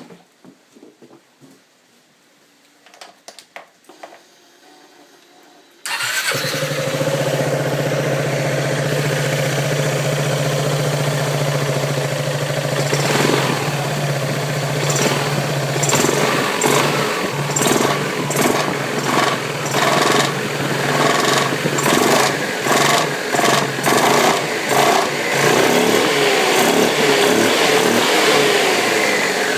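Yamaha Majesty 400 maxi scooter's single-cylinder engine starting about six seconds in, after a few faint clicks. It then runs steadily and is revved in repeated short pulses, with frequent knocks and rattles from the CVT variator: the unwanted noises of a faulty variator.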